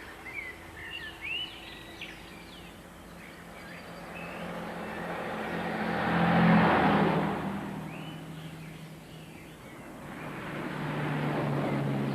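Birds chirping briefly, then a car drives past, loudest about six and a half seconds in, and a second vehicle approaches near the end: early-morning road traffic.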